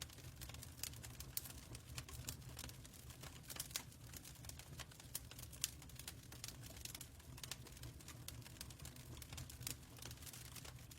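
Fireplace crackling: irregular small pops and snaps over a steady low rumble.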